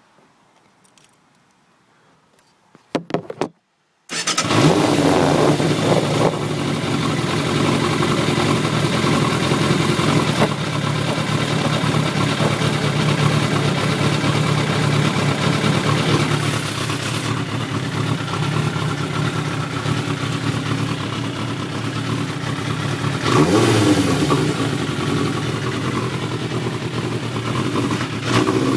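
Motorcycle engine, a 1996 Yamaha YZF600 inline-four breathing through a full Yoshimura 4-1 exhaust, starting up about four seconds in after a short burst, then running at a steady idle, with a brief rise in revs near the end.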